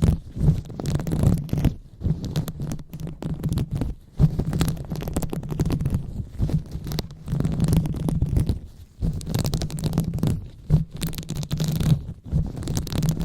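Hands rubbing and massaging directly on a microphone, giving a deep muffled rumble with scratchy rustling in uneven strokes. There are short pauses about four and nine seconds in.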